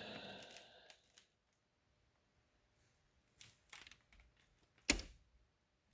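Mostly quiet, with a few faint clicks and then one sharp knock about five seconds in, the sounds of small objects being handled.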